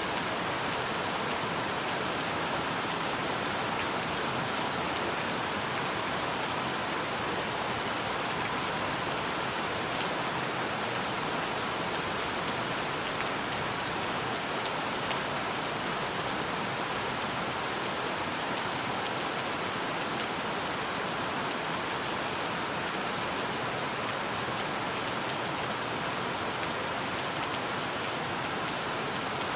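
Steady rain falling: an even hiss of rain with scattered faint drop ticks, unchanging throughout.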